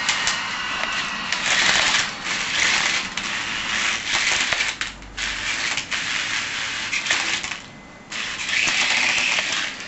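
Toy helicopter's small electric motor and rotor whirring in uneven bursts that stop and start, with scattered clicks and knocks.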